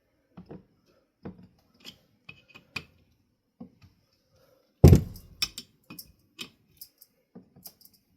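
Flathead screwdriver clicking and knocking against a ceiling fan's metal motor housing as it is twisted in the gap to pry the two halves apart, with one loud clank about five seconds in and sharper clicks after it.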